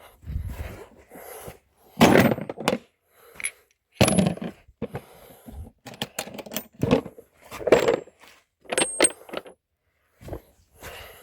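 Small metal parts clinking and clattering as they are handled and set down: a run of separate sharp knocks, some ringing briefly, with the loudest about two, four and eight seconds in.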